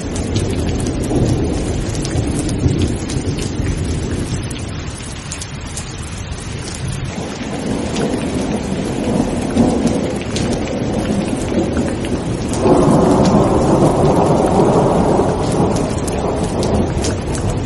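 Steady heavy rain with rolling thunder rumbling in and out. About two-thirds of the way through, a louder peal of thunder breaks in suddenly and rumbles for a few seconds.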